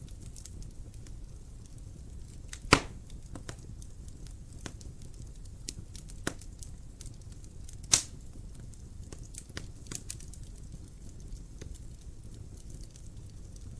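Wood fire crackling in a fireplace: a low steady rumble of flame with scattered small snaps and two loud pops, about three seconds and eight seconds in.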